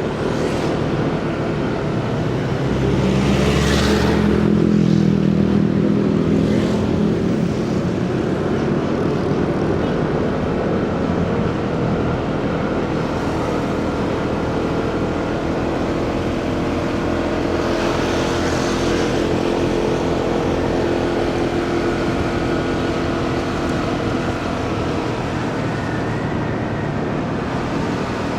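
Motorcycle riding in city traffic: its engine running steadily under road and wind noise, with other vehicles passing close by. A few seconds in, a louder, deeper engine sound swells for several seconds.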